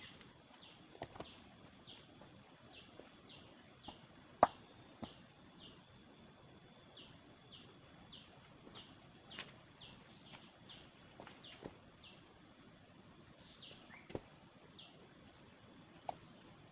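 Forest ambience: a steady high-pitched insect drone with a run of short falling chirps repeating about every half second, and scattered sharp clicks and knocks, the loudest about four and a half seconds in.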